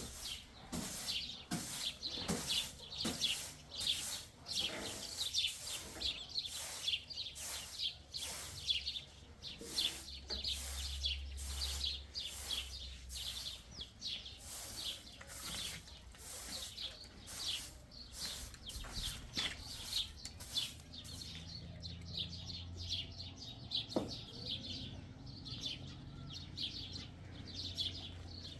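Small birds chirping over and over, several short high calls a second, with a faint low hum underneath.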